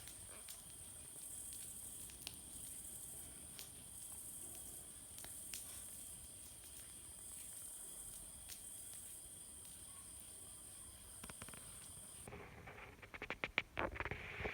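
Wood campfire crackling with scattered sharp pops over a steady high-pitched hiss of night insects. Near the end the insect hiss cuts off abruptly and a quick run of louder crackles and pops follows.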